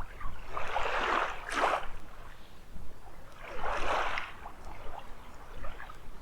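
Small waves washing onto a sandy beach: two rushes of surf that swell and fade, about three seconds apart.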